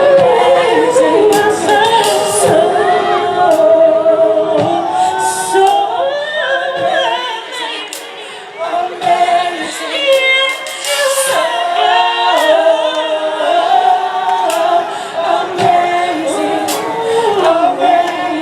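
Female gospel vocal group singing in harmony, with piano and drums, the voices dropping briefly about halfway through before picking up again.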